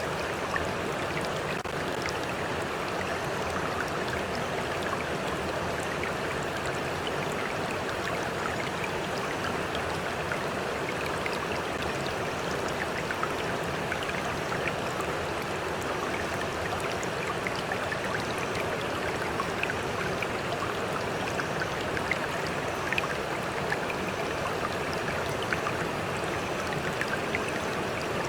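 A stream running steadily, with water lapping close by and small drips and splashes scattered throughout.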